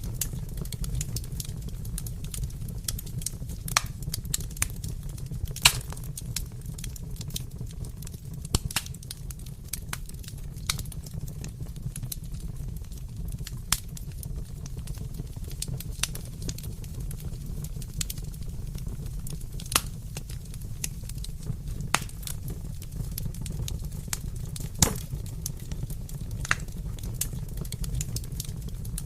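Wood fire crackling in a fireplace: a steady low rumble of flames with irregular sharp pops and snaps, a few every second.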